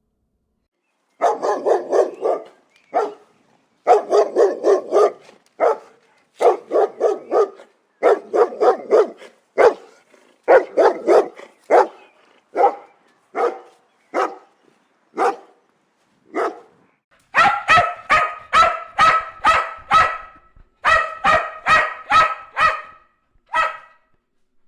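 Dog barking in rapid bursts of several barks at a time. About 17 seconds in, faster, higher-pitched barking takes over.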